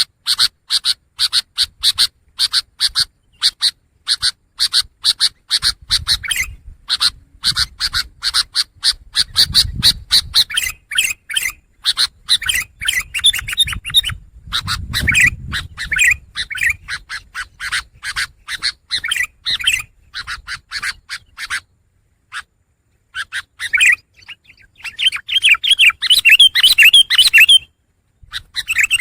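Long-tailed shrike (pentet) singing: fast runs of rapidly repeated short chattering notes, broken by a pause about three-quarters of the way through.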